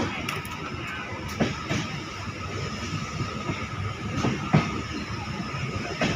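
Passenger train coach running on the rails, heard from on board: a steady rumble with irregular sharp knocks as the wheels cross rail joints, the loudest right at the start and another about four and a half seconds in.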